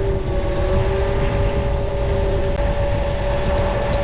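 Tractor engine running steadily, a low rumble with a steady hum over it.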